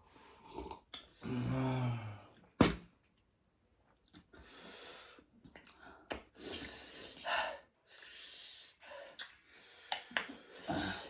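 A person's breathing and mouth sounds: several soft breaths with a few sharp clicks, and a brief murmur of voice about a second in.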